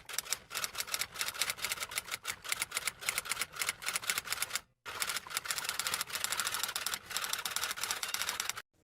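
Mechanical typewriter being typed on fast, a rapid run of key strikes with a short pause about halfway through.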